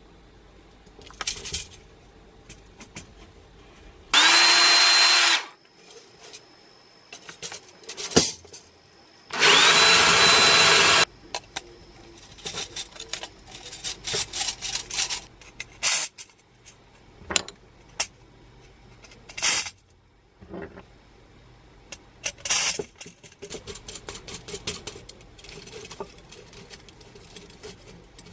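Electric drill run twice in short bursts of about a second and a half each, its pitch rising as it spins up. Between and after the runs come scattered clicks and light knocks of parts being handled.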